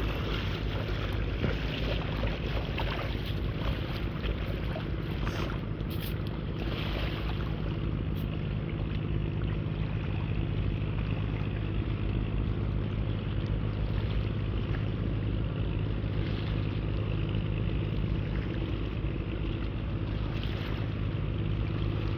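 Small boat engine running steadily at one speed.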